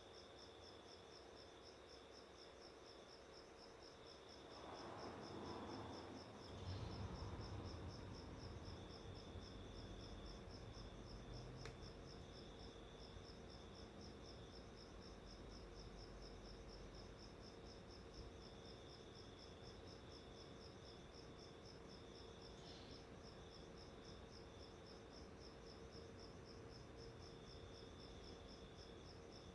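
Faint, steady chirping of a cricket: a high, evenly pulsed trill that goes on without a break. A soft low rumble swells up about five seconds in and slowly fades.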